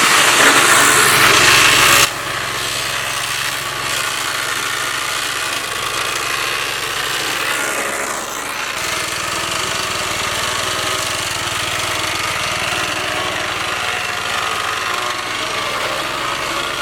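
Cub Cadet riding lawn mower running steadily while cutting through brush, with a loud rushing noise for the first two seconds.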